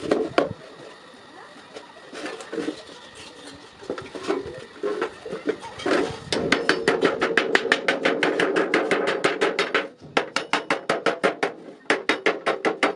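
Hammer striking iron on an anvil: scattered clanks for the first several seconds, then rapid, even blows at about six a second with the metal ringing, broken by a short pause near ten seconds.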